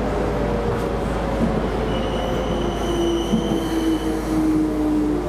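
Keisei Line electric train running, heard from inside the front car. Its motor whine slides down in pitch as it slows. A steady high-pitched squeal lasts about two seconds in the middle.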